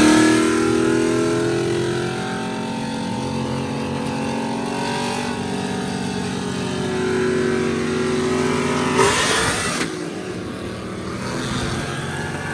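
A high-performance vehicle engine revving. The revs fall away at the start, hold steady, then creep up, and a short sharp burst of noise comes about nine seconds in.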